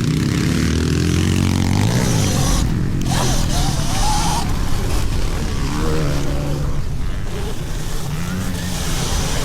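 Small dirt-bike engines revving up and down, their pitch rising and falling, over a steady rushing noise.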